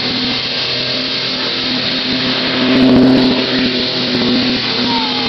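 Car engine held at high revs against its rev limiter, the pitch staying almost flat with a slight swell about three seconds in.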